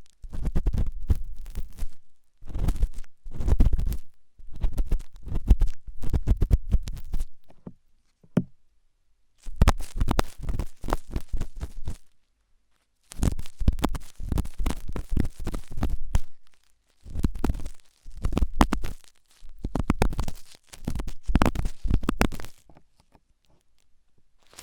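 Ear pick scraping and scratching hard inside an ear right at the microphone, in bouts of one to three seconds with short pauses between them. Each bout is a run of rapid scratches over a deep rumble.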